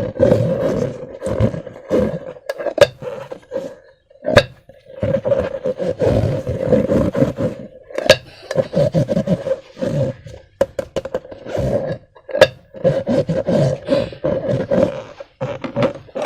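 Slime and rubber balloons being squeezed and worked by hand: irregular squelching, rubbery noises with a few sharp snaps in between.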